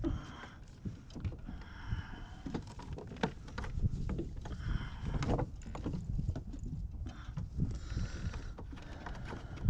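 Gear being handled aboard a fishing kayak: scattered knocks and clicks with bouts of rustling, over a steady low rumble.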